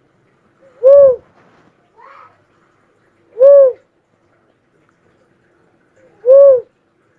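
Cuckoo-dove (uncal) calling: three single hooting notes, evenly spaced about two and a half to three seconds apart, each rising and then falling slightly in pitch. A faint higher call is heard about two seconds in.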